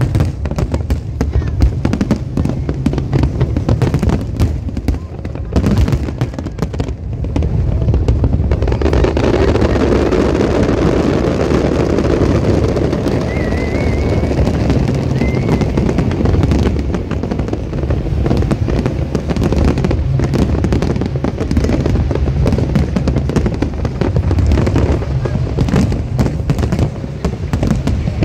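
Fireworks display going off in quick succession. The bangs are distinct at first and merge into a continuous din about eight seconds in.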